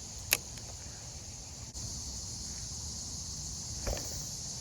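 Steady high-pitched chorus of insects, with a sharp click just after the start and a softer knock near the end.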